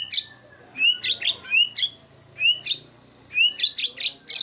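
White-rumped shama singing one phrase over and over, about five times: a short curving whistle, then quick sharp high notes.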